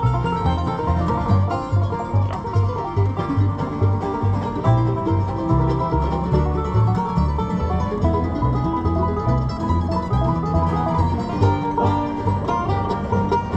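Acoustic bluegrass band playing an instrumental passage, banjo picking over guitar, with low bass notes on a steady beat of about two to three a second.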